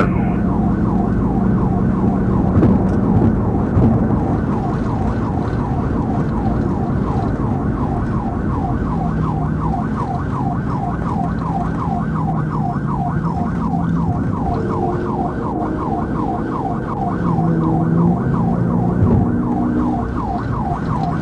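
Police car siren on a fast yelp, its pitch sweeping up and down a few times a second, over steady engine and road noise during a high-speed pursuit.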